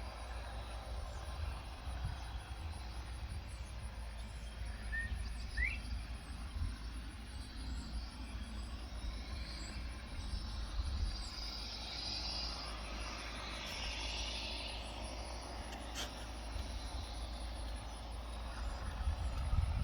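Outdoor farm-field ambience: insects chirring steadily in a fast, even pulse, a single short rising bird chirp about five seconds in, and a steady low rumble underneath, with one sharp click near the end.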